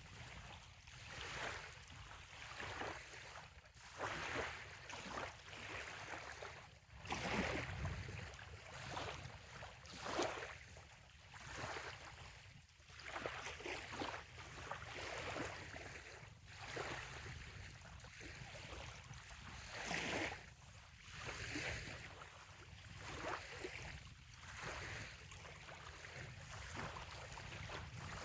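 Small wavelets of calm bay water lapping on a sandy shoreline, in irregular soft washes every second or two over a low steady rumble.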